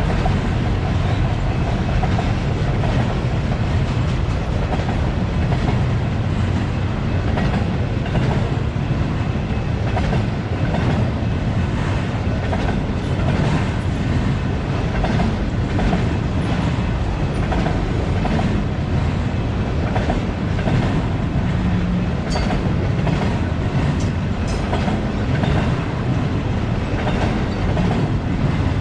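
Freight train of enclosed autorack cars rolling steadily past: a constant low rumble of steel wheels on rail with a running clatter of short clicks.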